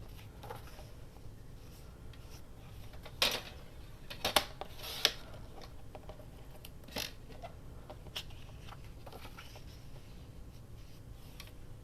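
Scissors snipping paper in short, irregular cuts while trimming a small piece around its edges. The loudest cuts come together about three to five seconds in.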